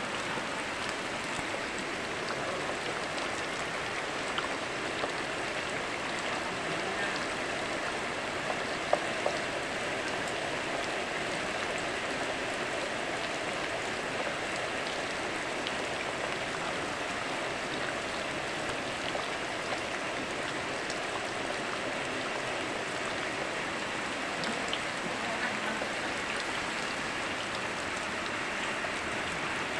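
Steady rain falling together with a flowing river, an even rushing hiss with a few sharper drip sounds, the loudest about nine seconds in.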